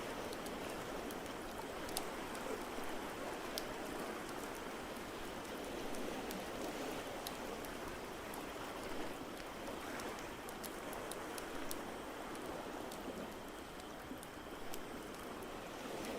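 Fireplace crackling, with scattered small pops over a steady wash of water noise.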